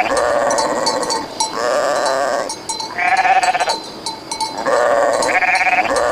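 Loud repeated animal calls, each about a second long, coming in a regular repeating pattern with abrupt jumps in pitch.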